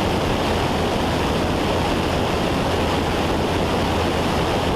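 Steady drone of a Cessna 172's engine and propeller with wind rush, heard inside the cabin in climbing flight.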